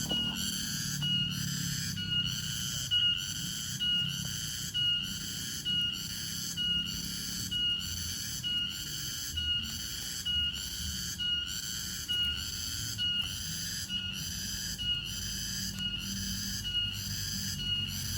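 A cricket calling in a steady rhythm, about one and a half chirps a second, each chirp a short high buzzing pulse.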